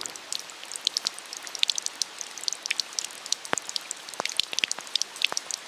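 Rain falling, with many separate drops ticking irregularly on nearby surfaces over a steady hiss.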